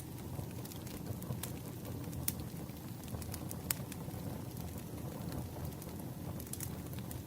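Campfire burning: a steady low rumble of flames with sparse sharp crackles and pops from the burning wood.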